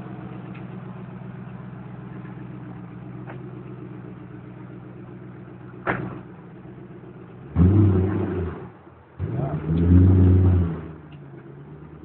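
Koenigsegg CCXR's supercharged V8 idling steadily, then revved hard twice, each rev rising and falling back to idle. A short sharp click comes just before the revs.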